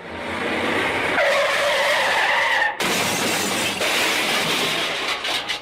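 Car tyres screeching in a skid, broken off about three seconds in by a crash with breaking glass and scattering debris.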